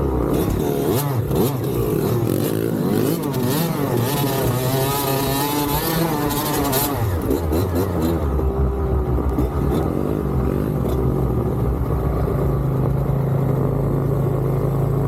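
Dirt bike engines revving up and down as they ride, with several pitches rising and falling across one another, then settling into a steadier, more even note from about eight seconds in.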